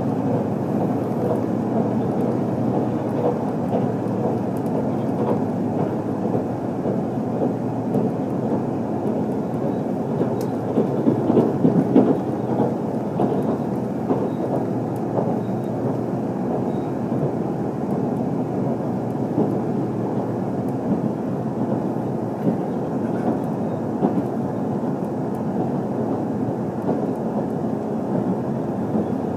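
Steady running noise of an HC85-series hybrid diesel train heard from inside the passenger cabin: a low rumble of wheels on rails and the running gear, growing briefly heavier about eleven seconds in.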